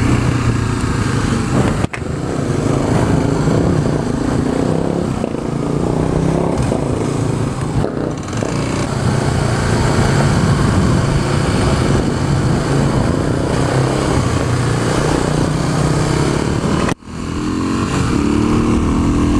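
Dirt bike engine running as it is ridden, its pitch rising and falling with the throttle. The sound cuts out abruptly for a moment twice, about two seconds in and near the end.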